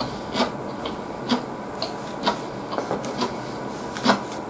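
Close-miked chewing of crisp food, mostly salad vegetables, with a sharp crunch about once a second and softer mouth clicks between, the sharpest one near the end.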